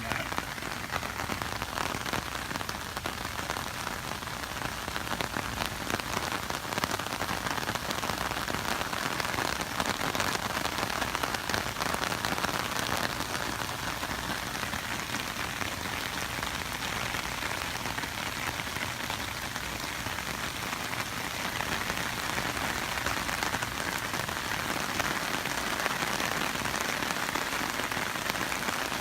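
Rain falling steadily, an even hiss of drops with no letup.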